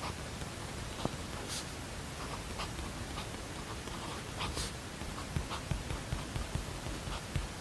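Steady white-noise hiss with the small sounds of someone studying at a desk: brief pen scratches and paper rustles, and a run of soft knocks near the end.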